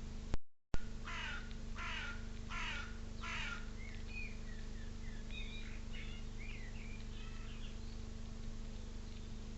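A crow cawing four times in quick succession, each call a harsh, falling note, followed by a few seconds of small birds chirping, over a steady low electrical hum.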